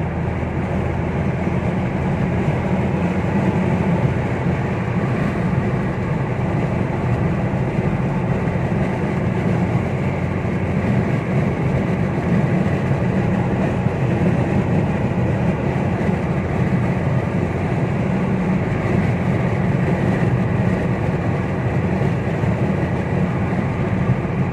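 Steady road and engine noise inside a car cruising at motorway speed.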